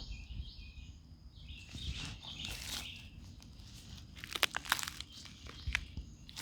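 Footsteps crunching on twigs and small branches, with irregular crackling and a quick run of sharp snaps about four seconds in.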